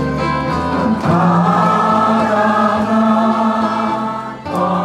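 A crowd of people singing a Korean song together in chorus over live accompaniment. About a second in they hold one long note, which breaks off briefly near the end before the singing goes on.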